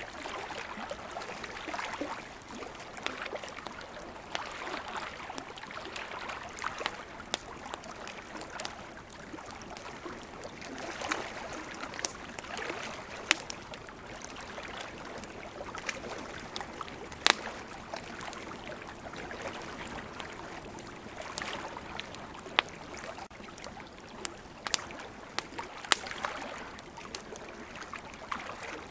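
Campfire crackling, with sharp pops scattered through, over the wash of ocean waves that swells and fades every few seconds.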